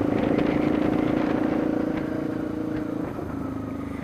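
Yamaha Lander 250's single-cylinder four-stroke engine running on the road with a steady note that gradually gets quieter through the second half.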